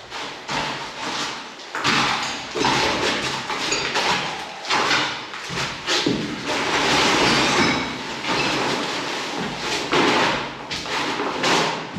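Masonry wall being broken down: a run of uneven knocks, thumps and grinding, scraping crashes of brick and stone.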